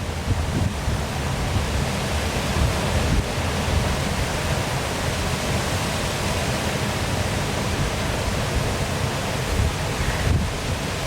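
Waterfall pouring steadily, a constant rushing of falling water with an uneven low rumble beneath it.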